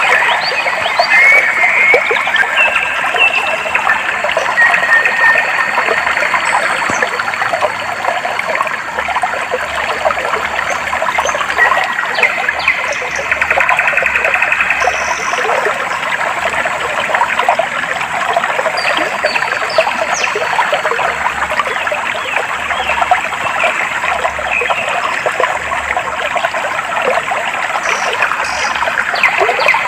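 Clear stream water trickling and babbling steadily, with birds chirping and whistling over it. A few short, rapid trills come and go.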